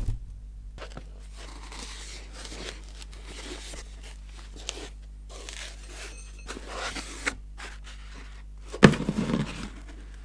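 Rustling, scraping and small clicks of scale engine model kit parts and packaging being handled, with a louder knock near the end as a part is set down.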